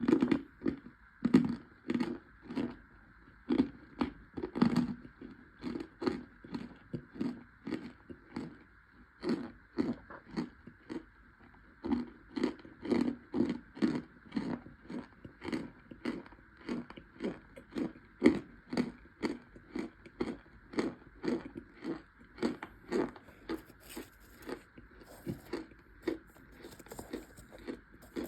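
Close-miked chewing of toasted cornstarch chunks and crumbles: a steady run of crunches, about two to three chews a second.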